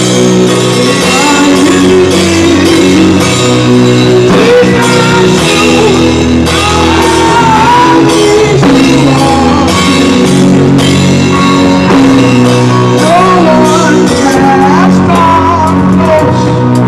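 Loud gospel music from a church choir with a band, a melodic lead line gliding over steady sustained chords.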